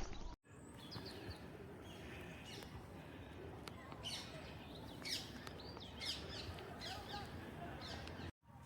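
Small birds chirping outdoors: a run of short, high, falling chirps in the second half, over faint background noise.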